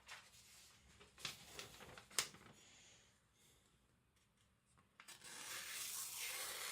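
Handling noises during a knife's sharpness test: a few light clicks and knocks in the first couple of seconds, then from about five seconds in a steady rustling hiss.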